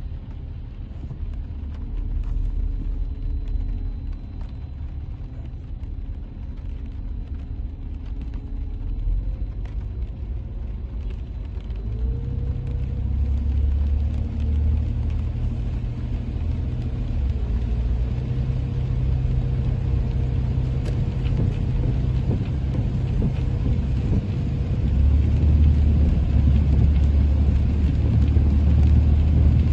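A car driving, with a steady low rumble that grows louder over time and an engine hum that steps up in pitch about nine and twelve seconds in.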